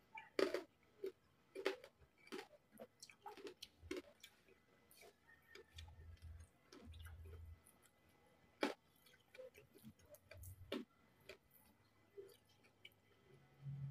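Close-up chewing of crispy pata (deep-fried pork knuckle) with rice: irregular wet mouth clicks and small crunches, one sharper crunch a little past the middle.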